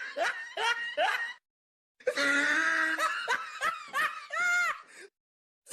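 Two short laughter sound effects, one after the other with a brief silent gap: first a quick run of rising 'ha' bursts, then a longer laugh of repeated bursts.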